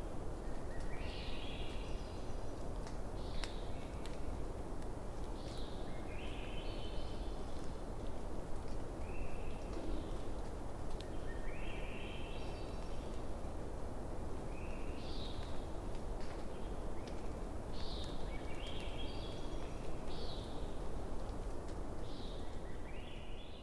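Campfire burning with a steady hiss and an occasional sharp crackle, while an animal repeats a short call of stepped, rising tones every one to three seconds.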